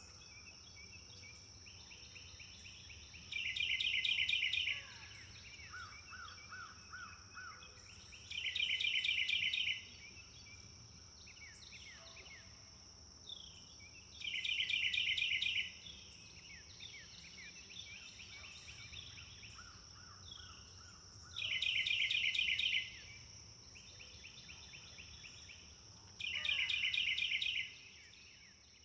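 A songbird sings the same short phrase over and over, a fast trill of rapid repeated notes about a second and a half long, roughly every five seconds. Softer chirps from other birds come between the phrases, over a steady high-pitched buzz.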